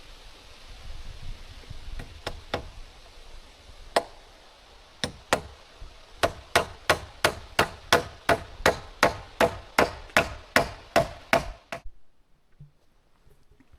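Hammer blows on wood: a few scattered strikes, then a steady run of about three blows a second that stops short near the end, over a steady rushing background noise.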